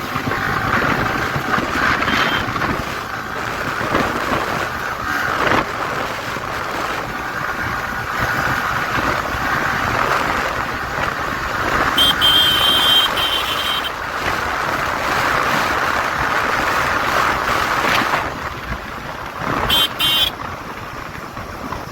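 Wind rushing over the microphone on a moving motorcycle, with engine and road noise beneath. A vehicle horn sounds for about two seconds about halfway through, and two short honks follow near the end.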